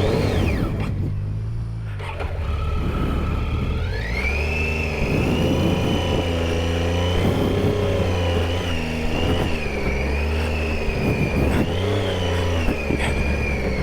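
Triumph Tiger 800 XCa's three-cylinder engine running under load, its revs dropping about a second in, climbing again about four seconds in and then rising and falling with the throttle.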